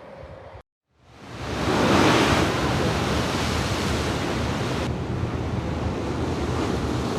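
Blizzard wind blowing hard across the microphone: a dense rushing noise that fades in after a brief cut to silence about a second in, then keeps going with swelling gusts.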